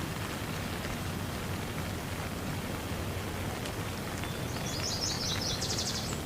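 Steady rain falling. About four and a half seconds in, a bird calls with a series of short high chirps that quicken into a rapid trill near the end.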